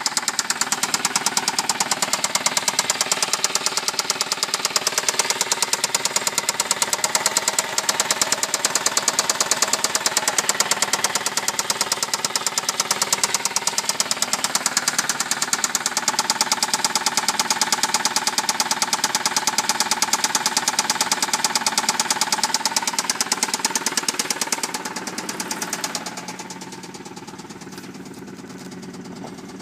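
Saab car engine running with a fast, even knocking. About 25 seconds in the knocking dies down and the engine runs on more quietly.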